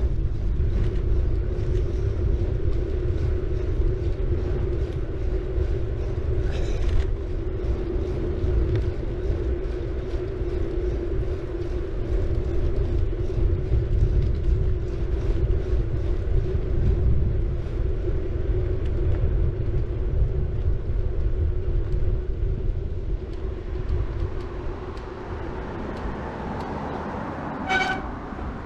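Wind rumble and tyre noise from a city bike rolling along the road, with a steady low hum, easing off in the last few seconds as the bike slows. Near the end comes a short high-pitched squeal from the bike's disc brake pads squeaking.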